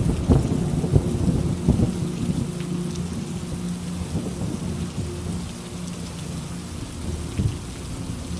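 Steady heavy rain with a thunderclap at the start that crackles and rolls on for a couple of seconds before fading into the rain, and a smaller rumble near the end.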